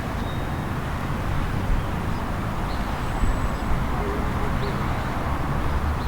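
Outdoor town ambience: a steady wash of background noise with a low rumble underneath and a few faint, short high chirps.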